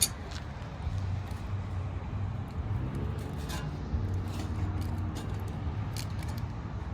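Scattered light metallic clicks and taps of an exhaust tip being handled on a truck's tailpipe, with a sharp click at the start, over a steady low hum.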